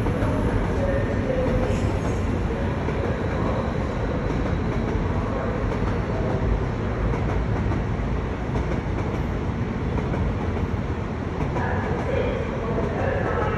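Class 60 diesel locomotive running, a steady, continuous engine sound with no breaks or changes in level.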